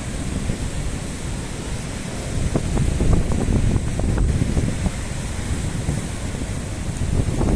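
Strong storm wind buffeting the microphone in gusts, a deep rumble over a steady hiss, swelling about three seconds in.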